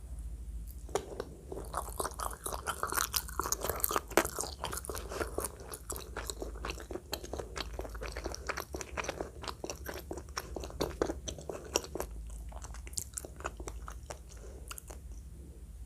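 Close-miked chewing and biting, done loudly: a dense run of crunchy clicks that thins out after about twelve seconds.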